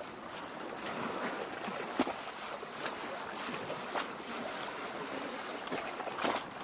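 Small waves lapping at a lakeshore, a steady wash of water with small splashes at irregular moments.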